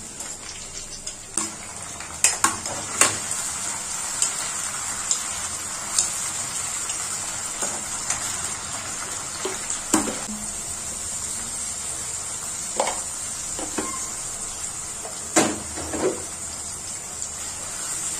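Chopped onion, tomato and green chillies sizzling steadily in mustard oil in a metal kadai, with a steel spoon clinking and scraping against the pan now and then as they are stirred.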